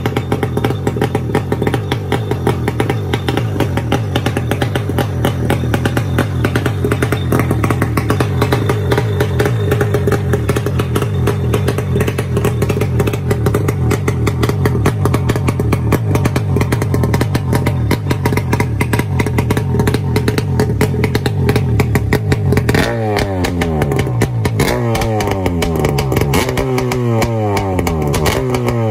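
Kawasaki 650 X2 two-stroke twin-cylinder watercraft engine running at a steady speed. From about 23 seconds in, the throttle is blipped several times, with the revs dropping away after each blip.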